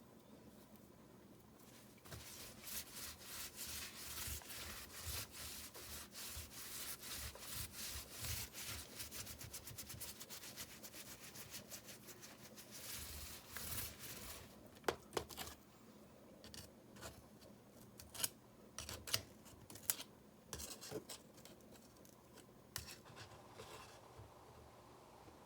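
Rapid rubbing and scraping strokes of hand work on grout between river rocks, starting about two seconds in and running for some thirteen seconds, then giving way to scattered sharp clicks and taps.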